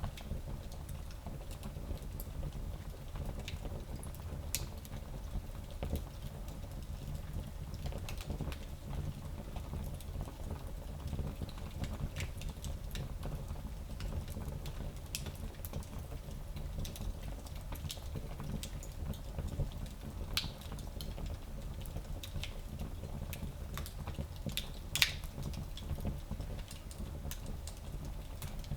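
Fire burning in a small fireplace: a steady low rumble with scattered crackles and pops, the loudest pop about 25 seconds in.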